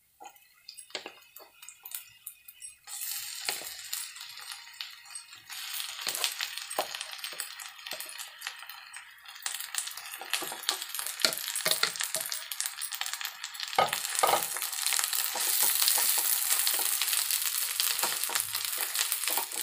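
Mashed boiled potato sizzling in hot oil in a non-stick kadhai, with a wooden spatula knocking and scraping against the pan as it is pressed and stirred. The sizzle sets in about three seconds in and grows louder near the end.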